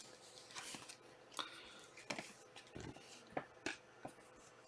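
Faint, irregular clicks and light rustles of trading cards being handled and sorted by hand.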